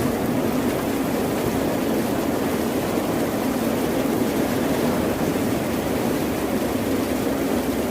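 Ocean surf: a steady, unbroken wash of waves with no distinct swells or breaks.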